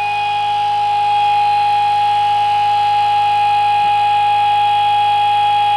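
Pulse motor running under full load at about 3075 rpm on 24 volts, its four alternator coils shorted: a steady high-pitched whine with a few higher overtones, growing a little louder about a second in.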